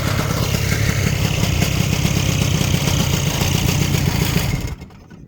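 1971 Ski-Doo Olympic snowmobile's two-stroke engine running steadily, then cutting off suddenly near the end.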